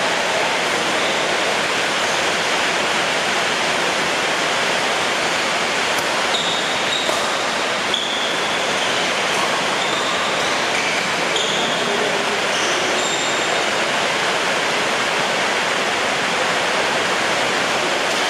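Heavy rain pouring down in a steady, loud hiss. A few faint short squeaks and ticks come through it in the middle.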